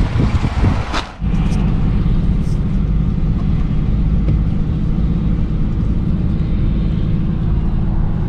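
Wind buffeting the microphone for about a second, then an abrupt change to the steady low drone of a truck driving at road speed, heard from inside the cab.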